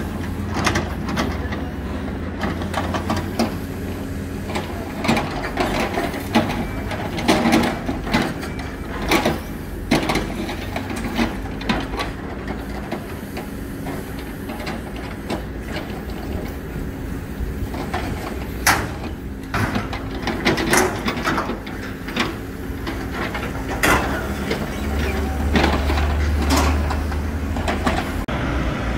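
Hidromek 102S backhoe loader's diesel engine running steadily, with frequent sharp knocks and clanks from the machine working. The engine's rumble grows louder near the end.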